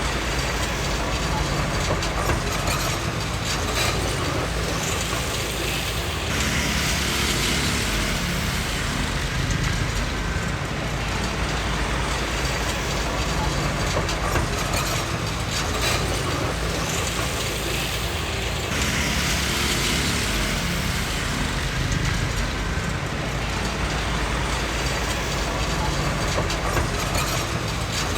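Komatsu D20P crawler bulldozer working: its diesel engine runs steadily under the clatter of its machinery. Two stretches of louder hissing noise come in, one about six seconds in and one near twenty seconds in.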